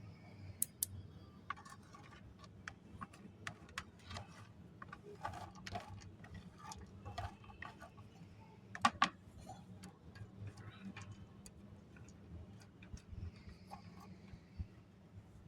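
Pieces of dry namkeen snack mix clicking and tapping as they are picked up and dropped while being sorted by hand, in irregular light clicks with a louder cluster about nine seconds in. A steady low hum runs underneath.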